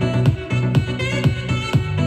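House-style electronic dance music with a kick drum about twice a second over a deep bass line, played through a Turbosound active loudspeaker under test after repair of its input board.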